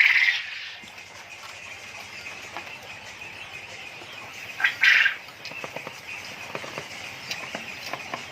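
A flock of caged quail: steady chirping, with one loud call right at the start and another about five seconds in, and many light clicks and taps in the last few seconds.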